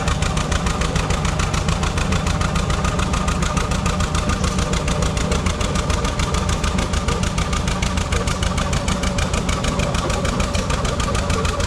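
An engine running steadily, with a fast, even beat of firing pulses.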